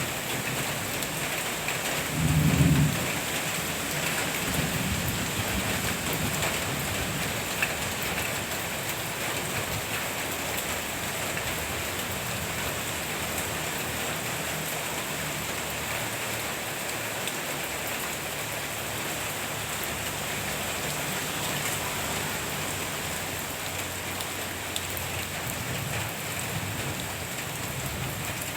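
Steady rain falling, with a brief, louder low rumble about two seconds in and fainter low swells later on.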